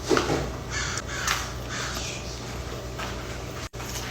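Close-miked chewing of a cookie: a series of short, rough crunching and mouth noises.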